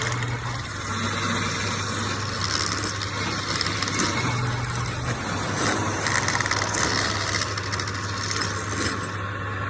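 Wood lathe running: a steady motor hum with a rough, uneven hissing noise over it.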